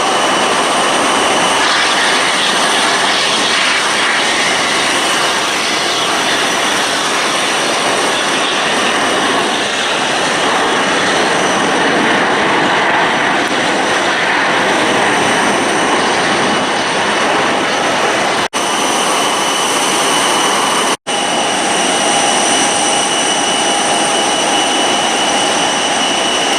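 Jet airliner's engines running loud and steady, a hiss with high whining tones over it. The sound drops out for an instant twice, about two-thirds of the way through.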